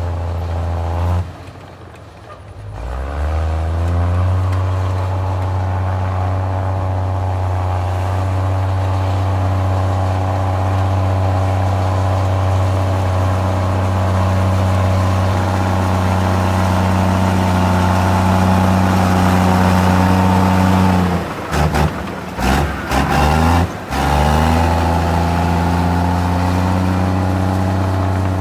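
Komatsu D53E bulldozer's diesel engine running steadily under load. It drops away about a second in and revs back up, and near the end cuts out several times in quick succession before coming back.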